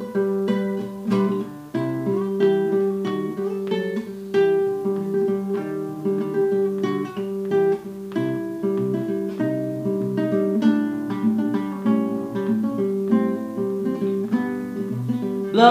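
Acoustic guitar playing a fingerpicked instrumental passage, a quick, steady run of plucked notes over a repeated bass note.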